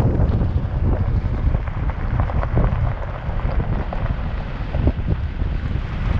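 Wind buffeting the microphone: a loud, uneven low rumble that rises and falls with the gusts, with a few faint knocks.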